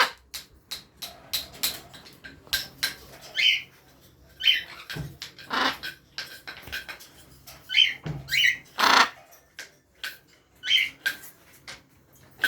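Blue-and-gold macaw making short high chirps about once a second, among many sharp clicks, with two louder, longer calls about five and nine seconds in.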